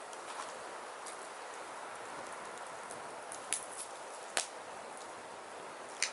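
Firewood burning: a steady hiss with scattered crackles and three sharp pops, the loudest about four seconds in.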